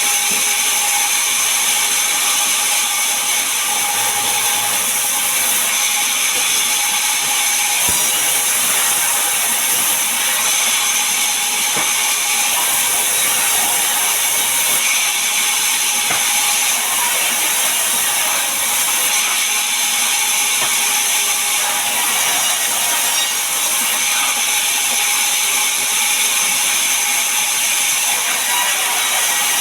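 Sawmill saw running steadily through a large mahogany log, a continuous loud mechanical rasp.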